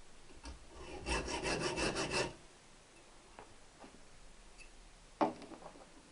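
A saw cutting a steel motorcycle exhaust pipe: a quick run of short rasping strokes lasting just over a second, then a single sharp knock near the end.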